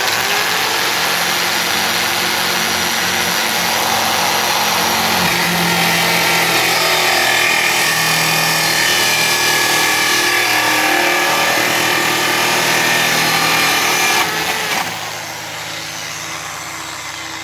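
Electric drill driving a hole saw through a cedar guitar top: a steady, loud whine with a grinding cut. Near the end it drops noticeably quieter and keeps running.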